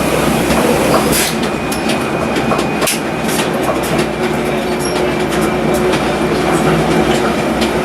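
Electric rack railway train of the Núria cremallera running downhill: a steady running rumble with frequent short clicks from the wheels and running gear, and a thin steady whine that comes and goes.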